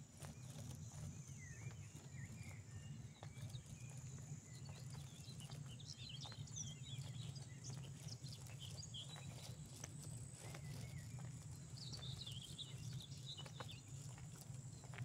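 Footsteps of someone walking outdoors, steady clicks throughout, with small birds chirping in short bursts and a steady high hiss behind.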